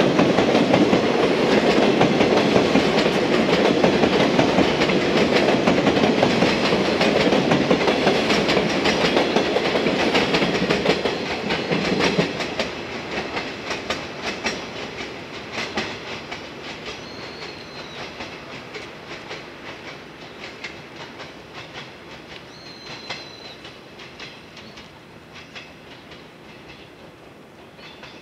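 Yellow 115-series electric train of two coupled three-car sets running on the rails: loud wheel and track noise with rapid clickety-clack over the rail joints. After about twelve seconds it drops and fades steadily as the train draws away, with a couple of faint, brief high squeals.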